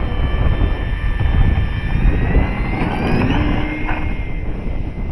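Dynam Waco electric RC biplane's motor and propeller giving a thin whine that climbs and shifts in pitch as it flies. Heavy wind buffets the microphone with a constant low rumble.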